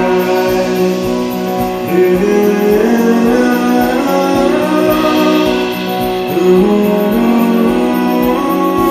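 Live band playing an instrumental passage of the song, led by strummed guitar, with a steady beat underneath.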